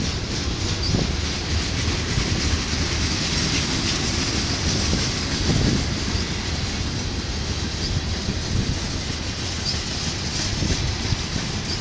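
Norfolk Southern manifest freight train's cars rolling past at speed: a steady rumble of steel wheels on rail with occasional clicks over the rail joints.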